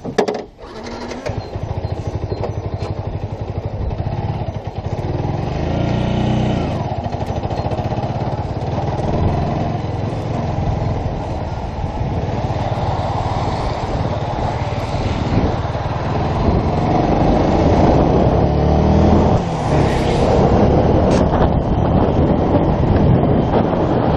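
Yamaha YZF-R125's 125 cc single-cylinder four-stroke engine running after a sharp click at the start, with its revs rising in a few places.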